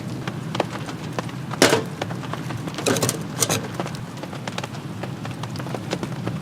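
Rain pattering and dripping on a camp tarp or tent, a dense run of small drops, with a few louder sharp knocks or snaps about a second and a half in and around three seconds in.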